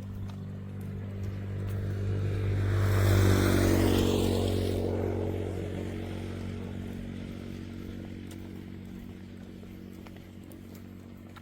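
A motor vehicle passing by, its engine sound swelling to its loudest about three seconds in and then fading slowly away.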